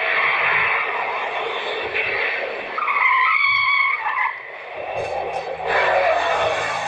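Car tyres skidding on the road, with a wavering high squeal about three seconds in that lasts a second and a half.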